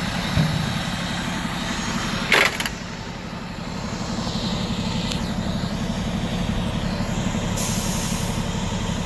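Vehicle engine idling with a steady low pulse, and a short burst of hiss about two and a half seconds in.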